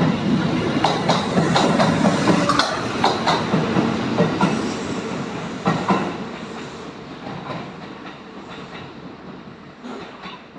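Train wheels clacking over rail joints in a quick run of sharp strokes, loud at first and then fading away over the last few seconds as the train moves off.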